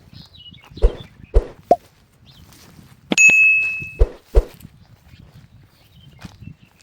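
Several dull knocks, then about three seconds in a sharp strike on something metal that rings on one high note for nearly a second, followed by two more knocks. Faint bird chirps in the background.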